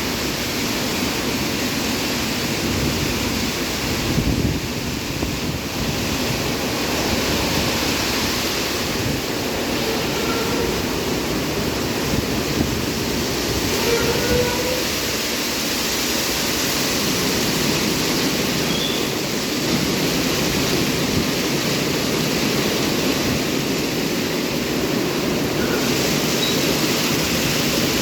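Istobal M12+ rollover car wash running, with a steady rush of spraying water and machinery.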